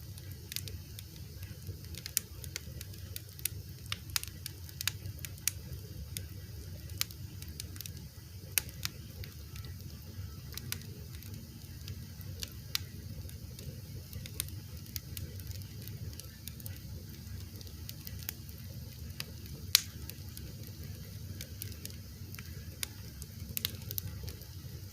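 Fire crackling: irregular sharp pops and snaps over a low steady rumble, with one louder pop about four-fifths of the way through.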